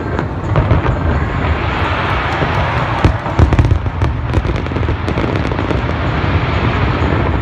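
A fireworks display going off: a continuous rumble of bursting aerial shells, with many sharp bangs and crackles on top and the loudest bangs about three seconds in.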